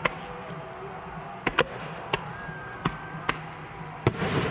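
Distant aerial firework shells bursting: sharp bangs at irregular intervals, the loudest about four seconds in, followed by a short crackle. A steady high insect chirring runs underneath.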